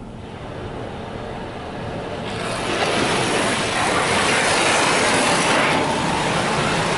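Mark VII ChoiceWash XT car wash spraying water onto a truck, heard from inside the closed cab: a steady hiss that builds and gets much louder about two and a half seconds in.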